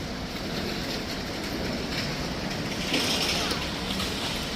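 Rainy city street ambience: a steady wash of noise, with a louder hiss about three seconds in.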